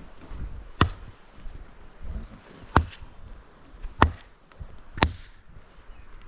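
An axe splitting firewood: four sharp chopping strikes into wood, spaced one to two seconds apart.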